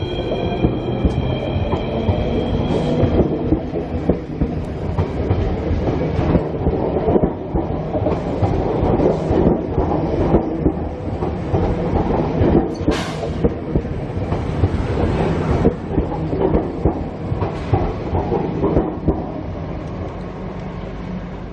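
Queensland Rail Tilt Train pulling out and running close past: a steady rumble of wheels on rail, with repeated clicks as the wheels cross the rail joints. A high steady whine in the first three seconds dies away, and the sound eases off near the end as the last cars go by.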